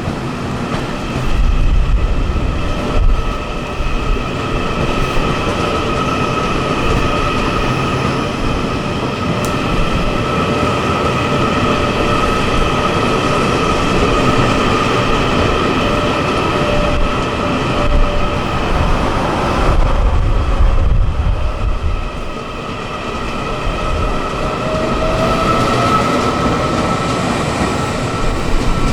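A train moving on the tracks: a continuous rumble of wheels on rail with a steady high-pitched whine over it, and a brief rising tone near the end.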